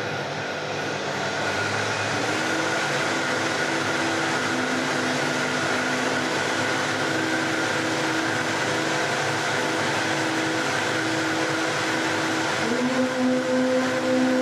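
Vitamix blender running steadily, its motor noise with a constant high whine. A woman's voice holds long sustained notes over it, starting about two seconds in and moving to a lower, louder note near the end.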